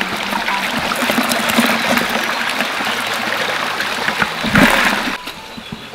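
Shallow stream water running over rocks, with a louder rush of water about four and a half seconds in that cuts off sharply, leaving a quieter trickle.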